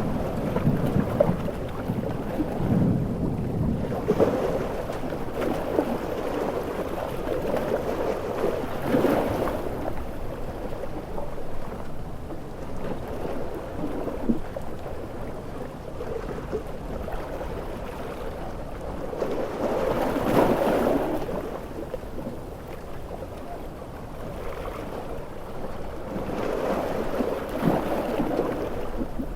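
Storm-at-sea soundscape of large ocean waves breaking, with heavy rain and thunder: a continuous deep rush of noise that swells and ebbs several times.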